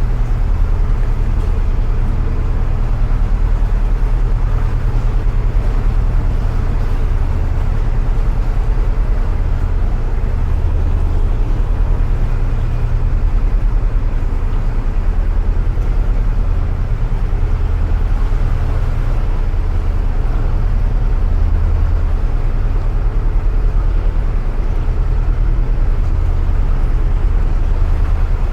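Narrowboat's inboard diesel engine running steadily at low cruising revs, a deep throb that swells and fades every second or two.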